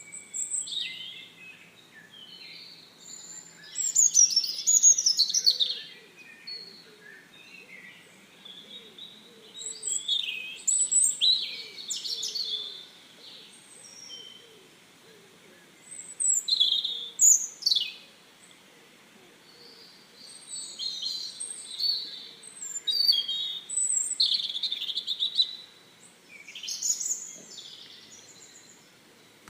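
Small songbirds singing: high, quick song phrases every few seconds, with short quiet gaps between them.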